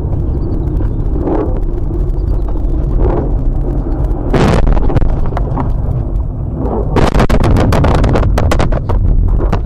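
Loud, continuous low rumble of a vehicle, with a rapid run of sharp cracking impacts from about seven seconds in, like a vehicle crash.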